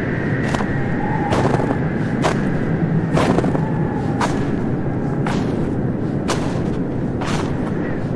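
Crunching footsteps in snow, at a slow, even pace of about one step a second, over a steady rumble of background noise.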